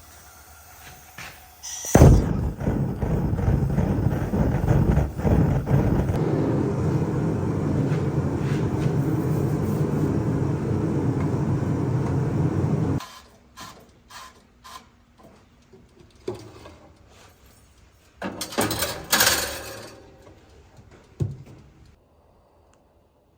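A machine runs steadily with a mix of hum and noise for about eleven seconds, starting and cutting off abruptly. A few knocks follow, then a second short loud burst near the end.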